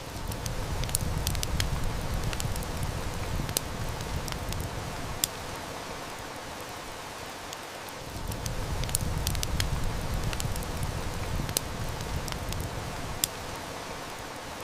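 Heavy rain falling steadily while a wood fire crackles, with sharp snaps scattered through it. A low rumble swells up twice, once at the start and again about halfway through.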